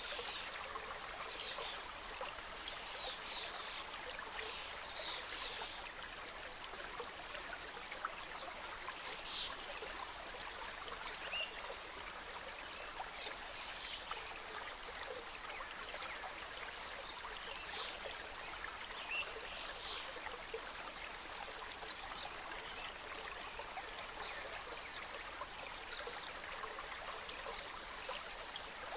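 Mountain stream cascading over rocks, a steady, even rush of flowing water, with brief high chirps scattered through it.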